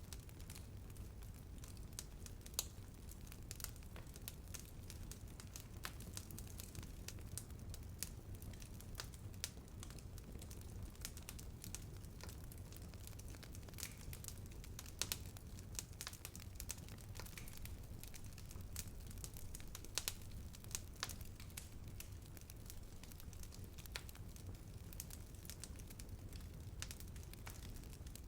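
Wood fire burning and crackling: a dense, irregular run of sharp snaps and pops over a low rumble of flames, with a few louder pops scattered through.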